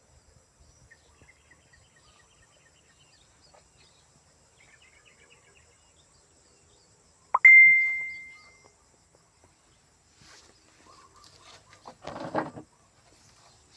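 Faint bird chirps, then about halfway one loud ding: a sharp strike and a single clear ringing tone that fades over about a second. A short rustling noise near the end.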